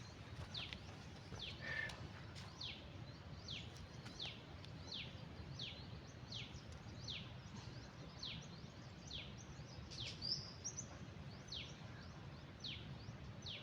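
A bird repeating a short, high, falling whistle over and over, a little more than once a second, over a steady low background noise.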